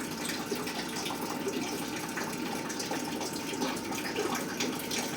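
Water running steadily, as from a tap or hose.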